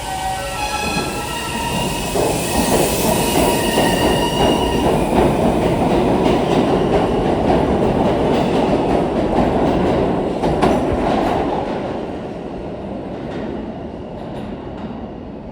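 R160 subway train: its motors whine in rising steps as it pulls away, then it runs past with a loud rumble and wheel clatter over the rail joints, fading in the last few seconds.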